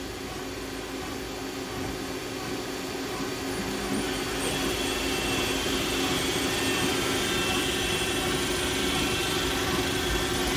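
Traub TNL 26 CNC Swiss-type lathe running with a steady mechanical hum. It grows louder about four seconds in, when a faint high whine joins.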